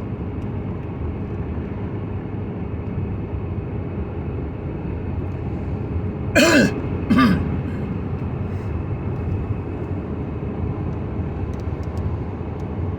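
Steady road and engine noise inside a moving vehicle's cab, with a man clearing his throat twice in short falling grunts about six and seven seconds in.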